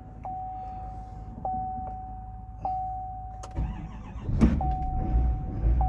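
A dashboard chime sounds repeatedly, about once every second and a bit. About three and a half seconds in, the 2023 Chevy 4500's 6.6L Duramax turbo diesel cranks and fires, then settles into a steady run. This is a cold start after the truck has sat for about four months.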